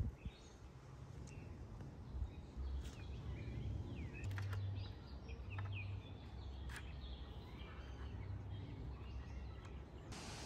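Birds chirping and calling with short, quick notes over a low rumble, with a few faint clicks. A steady hiss comes in near the end.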